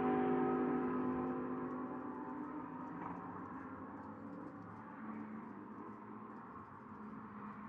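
GT3 race car engine note fading as the car pulls away, its steady multi-toned sound dying down over the first few seconds and leaving faint distant track noise.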